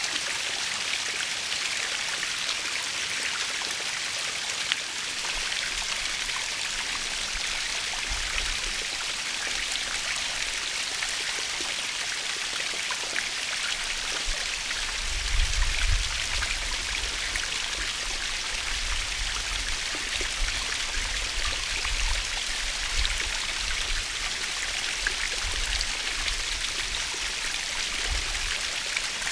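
Natural waterfall: a steady hiss of falling water with many small splashes and drips. Low rumbles come and go, loudest a little past the middle.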